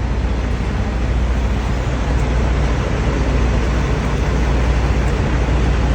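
Steady engine and road noise inside a moving truck's cab, with a strong low hum.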